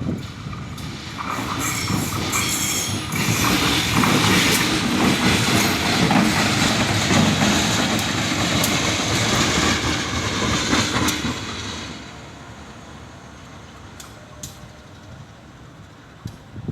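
A train running on the rails, its wheels clattering over the track. The sound swells over the first few seconds, stays loud, then drops away about twelve seconds in, leaving a low rumble with a few sharp clicks.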